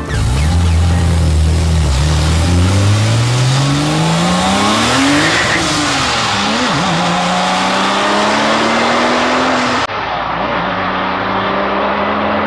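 A sports car engine accelerating hard, its pitch climbing steadily for several seconds, dipping briefly around the middle, then holding a high steady note. About ten seconds in the sound breaks off abruptly and resumes at a similar steady note.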